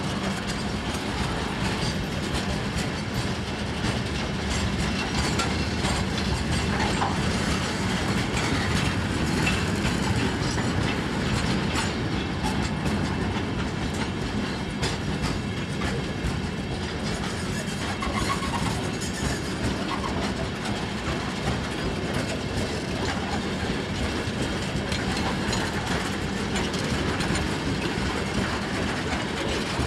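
Freight train's wagons rolling past at steady speed, wheels clacking over the rail joints.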